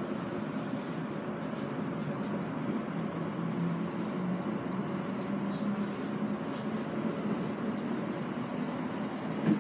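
E217 series electric train running, heard from inside its cab: a steady rumble with a low hum that rises in pitch a few seconds in, and scattered light clicks.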